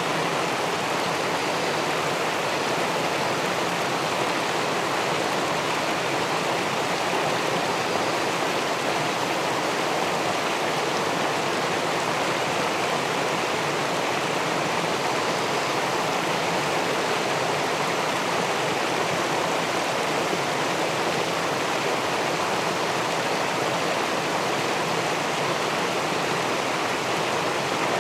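River water pouring over a weir and rushing through the pool below it, heard through a submerged camera: a steady, even rush with no break or change.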